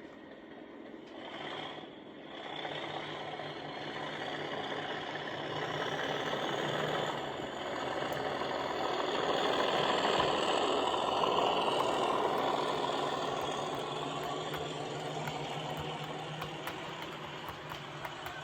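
Model Class 37 diesel's DCC sound decoder, heard through the loco's speaker, playing its English Electric V12 engine being thrashed as it powers away with a train. The engine note builds to its loudest about halfway through, with a high rising whine, then eases off, with light ticking near the end.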